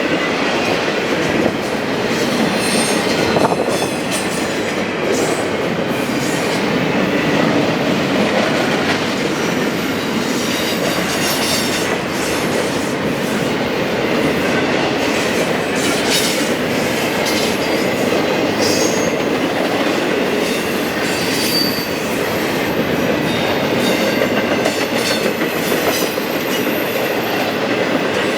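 Freight train cars rolling past at track level: a steady rumble of wheels on rail, with clicks over the rail joints and brief high-pitched wheel squeals now and then.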